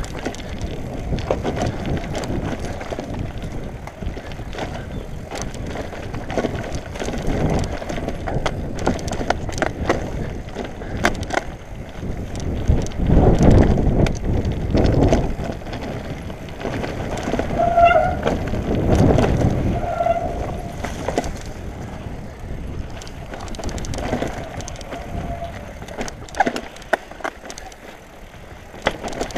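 Mountain bike riding a dirt singletrack: a steady rumble of tyres over the trail, with rattles and knocks from the bike. A few short squeaky tones come about two-thirds of the way in.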